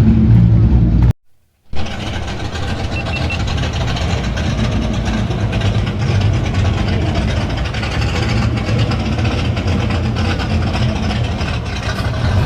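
A car engine running steadily. The sound cuts out completely for about half a second near the start, then an engine idles on.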